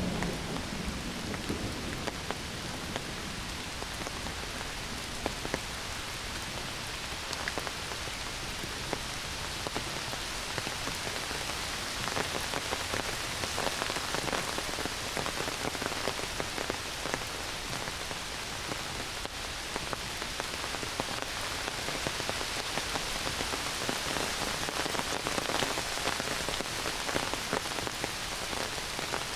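Heavy rain pouring steadily on forest foliage and ground, a dense patter of drops over a constant hiss, growing a little heavier about midway. The tail of a thunder rumble dies away in the first couple of seconds.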